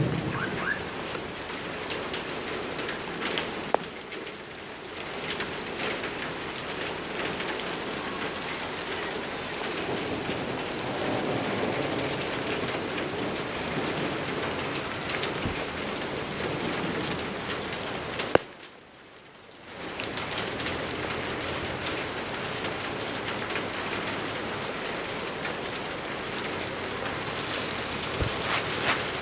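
Steady rain falling, with occasional sharper drops splashing on hard surfaces; the sound drops out for about a second about two-thirds of the way through.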